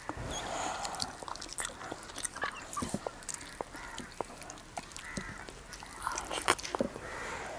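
Close-up eating sounds: wet chewing and a scattered run of small lip-smacks and mouth clicks as rice with nettle soup is eaten by hand.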